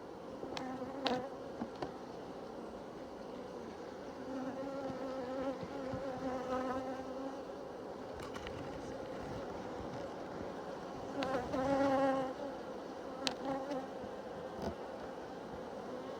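Honeybees buzzing at an open hive: a steady drone that swells louder twice, around four to seven seconds in and again around eleven to twelve seconds, as bees pass close. A few short sharp clicks sound over it.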